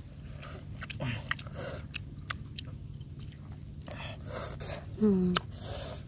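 Close-up eating sounds: irregular chewing and lip-smacking as the catfish is eaten by hand, with a short voiced sound about five seconds in.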